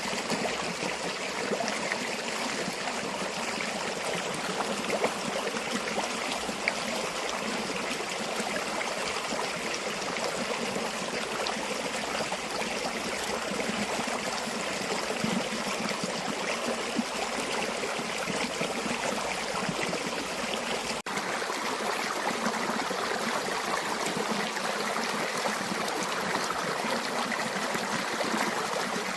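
River water flowing and trickling steadily, with a split-second dropout about two-thirds of the way through.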